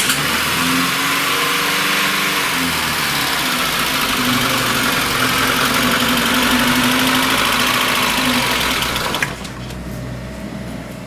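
The 1.5-litre carburetted four-cylinder of a VAZ-21099 running just after a cold start on the choke, with a knock and a misfire: "something is knocking, something is misfiring". Its sound drops abruptly about nine seconds in.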